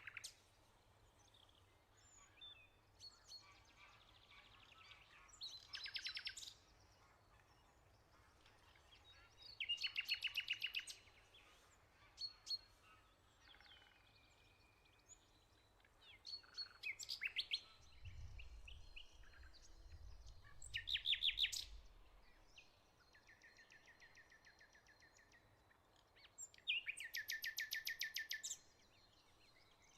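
Songbirds singing outdoors: a rapid trill of evenly repeated notes, each lasting a second or two and coming back every few seconds, with softer chirps from other birds in between.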